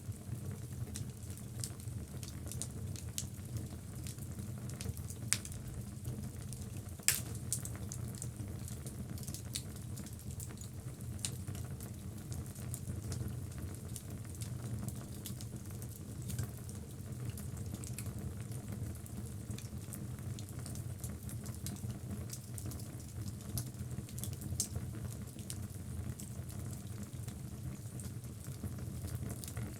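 Logs burning in a fireplace: a steady low rumble of flame with frequent small crackles and snaps, and two louder pops about five and seven seconds in.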